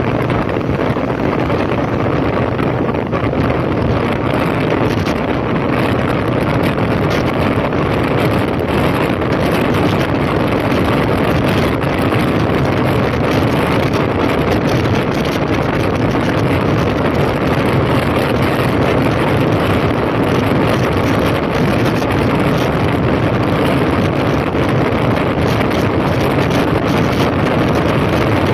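2005 Honda CB1300's inline-four engine running steadily while riding, with wind buffeting the microphone.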